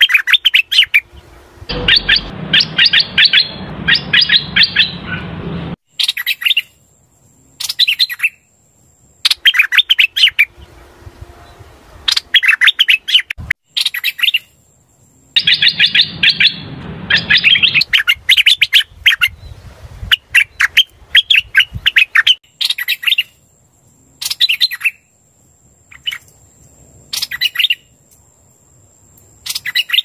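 Hoành hoạch bird singing: repeated bursts of rapid chirping notes with short pauses between them, including two longer chattering phrases. This is the call-up song used as a trapping lure.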